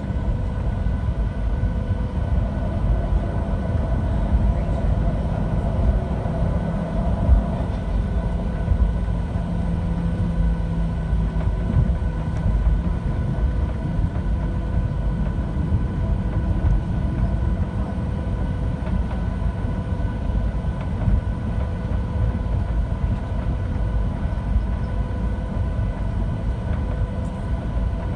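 Cabin noise inside a Boeing 737-700: a steady low rumble with faint, steady whining tones over it.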